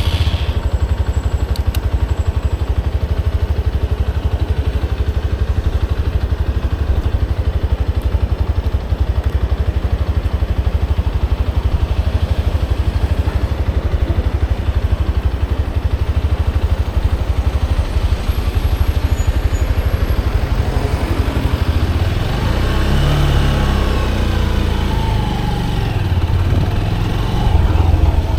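Motorcycle engine running at a steady idle with a low, even rumble. About twenty seconds in, the engine note starts to rise and fall in pitch as the revs change.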